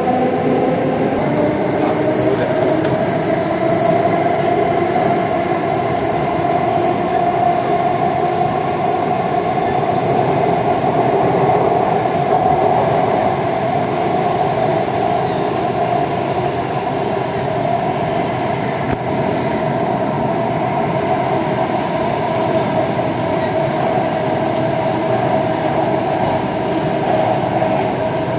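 Kolkata East-West Metro train (BEML rake) running between stations, heard from inside the carriage: a steady loud rumble of wheels and traction equipment. A humming tone rises slightly in the first few seconds as the train picks up speed, then holds level.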